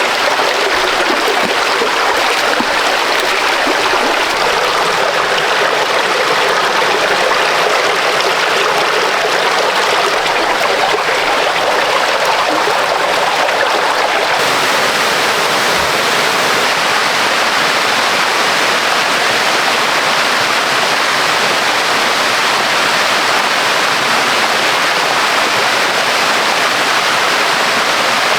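Rushing water of a stream and waterfall rapids: a steady, loud, unbroken rush.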